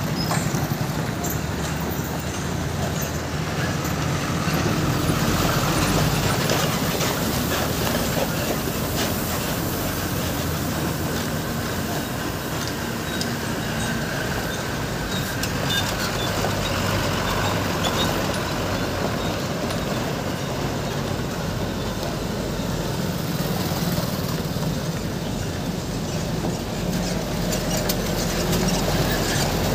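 Truck running steadily with road noise and light rattles.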